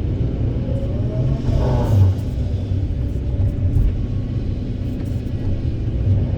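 Diesel engine of a Kobelco 200SK hydraulic excavator running under load, with a steady low rumble. The pitch rises briefly about one and a half seconds in, and there is a short low thud about two seconds in.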